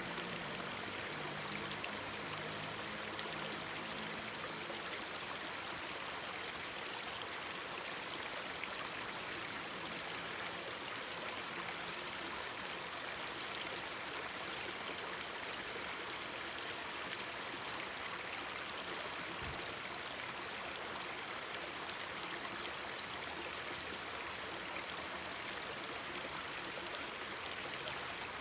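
Mountain stream babbling steadily.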